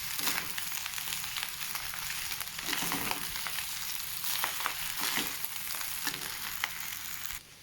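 Fried rice with chicken and scrambled egg sizzling in a pan on high flame as it is stirred, with scattered clicks and scrapes of the stirring against the pan. The sizzle cuts off suddenly near the end.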